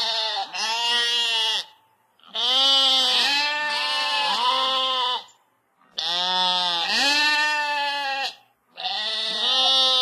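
Sheep bleating: a run of long bleats one after another, each lasting two to three seconds, with short silent gaps between them.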